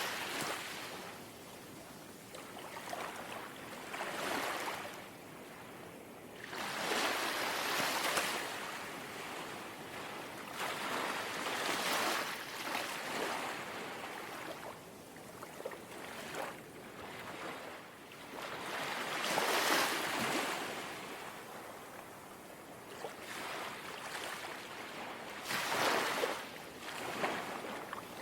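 Gentle sea waves lapping on a shore. The surf swells softly every few seconds and fades back to a quieter wash.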